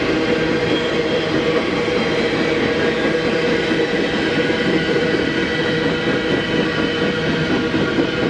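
A mixed freight train rolling past, its steel wheels running on the rails in a steady, loud rumble with several held tones.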